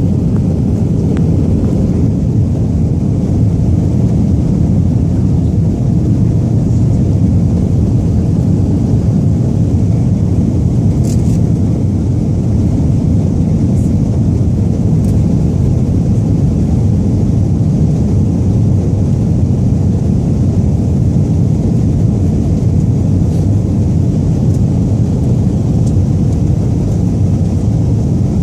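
Airliner cabin noise: the jet engines and rushing air heard from inside the passenger cabin as a loud, steady low rumble.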